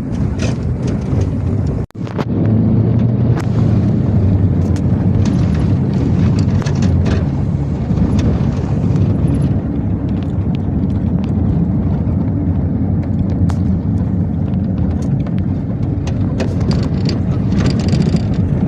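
Steady low rumble of a moving car on the road, with scattered light clicks and a brief dropout just under two seconds in.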